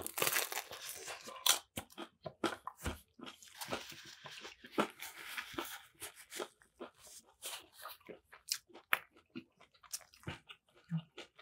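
A person biting into and chewing a Nashville hot chicken sandwich, the fried chicken crunching. The crunching is densest in the first second and a half and again around the middle, then turns to slower, softer chewing.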